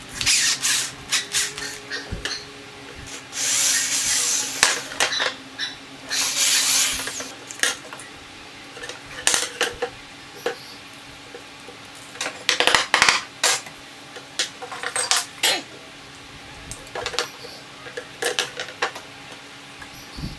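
Hand-tool work on small hard cage parts: scattered sharp taps and clicks, with two longer scraping strokes early on and a faint steady hum underneath.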